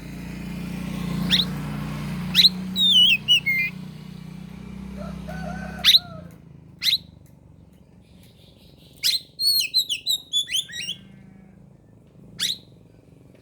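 Oriental magpie-robin singing: sharp upswept whistle notes and short, rapid warbled phrases, separated by pauses. A low steady hum sits under the first half and stops about six seconds in.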